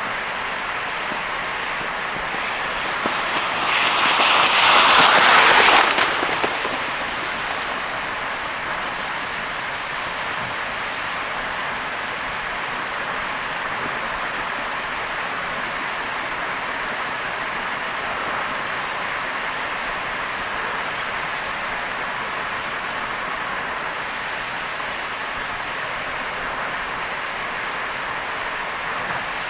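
A car driving on a wet expressway in heavy rain: a steady rush of rain and tyres on the soaked road. A louder rush swells and fades about three to six seconds in.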